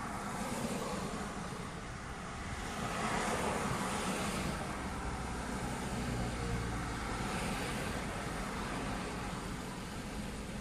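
Road traffic noise, as picked up by a car's dashcam: a steady rumble of engine and tyres, with passing vehicles swelling louder about three seconds in and again near eight seconds.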